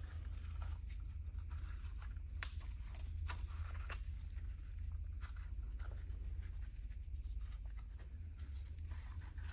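Scattered light clicks and rustles of an oil-soaked pleated paper filter element being worked out of a cut-open aircraft oil filter canister, over a steady low hum.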